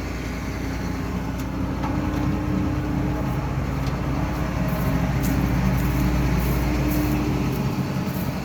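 John Deere 9500 combine running steadily: an even mechanical hum with a few held low tones, the engine and threshing works turning over.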